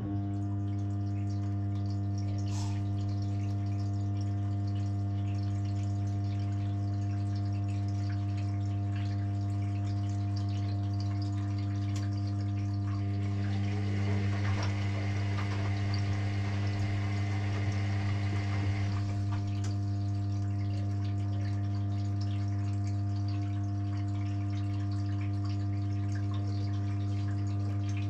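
Electrolux EW6S404WU washing machine's pump switching on abruptly with a steady electric hum, with water rushing through it for several seconds in the middle.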